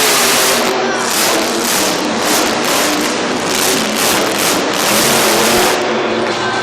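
Grave Digger monster truck's supercharged V8 engine revving hard in repeated surges, very loud.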